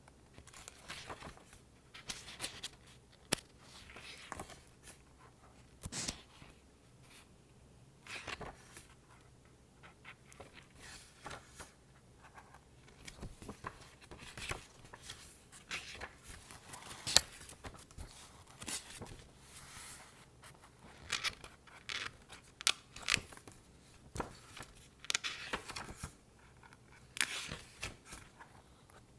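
A paper book handled close to the microphone for ASMR: an irregular run of short papery swishes, scrapes and taps from fingers on its pages and cover.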